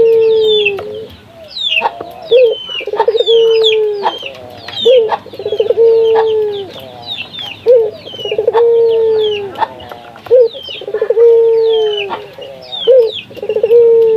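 Barbary dove (local puter dove) calling over and over, about every two seconds: each call a quick rolling stutter running into a long drawn-out coo that sags slightly in pitch. Quick high chirps from other small birds run through it.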